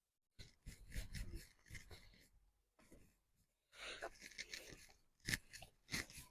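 Close-up eating sounds: a crisp taco shell crunched and chewed in two spells, followed by a few sharp clicks.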